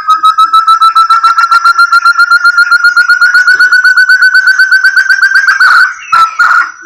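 Forest partridge (burung terung) lure call: a long run of rapid whistled notes, about ten a second, climbing slowly in pitch. It breaks off near the end, followed by a couple of sharp knocks.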